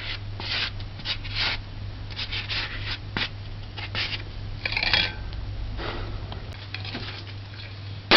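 A kitchen utensil scraping and rubbing soft butter in a small container while it is measured, in short irregular strokes with a brief clink about five seconds in, over a steady low hum.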